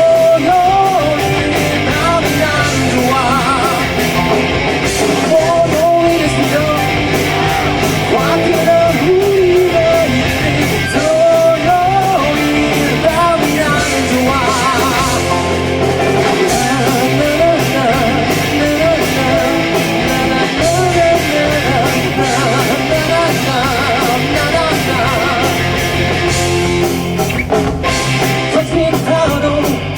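Student rock band playing live: electric guitars, bass, drums and keyboard under a lead vocal, in an upbeat rock song.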